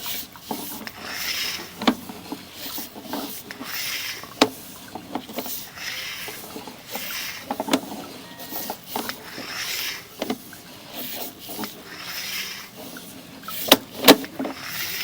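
Sewer inspection camera's push cable being fed into the line in strokes, a scraping rub that swells about every one and a half seconds, with light clicks and two sharp knocks near the end.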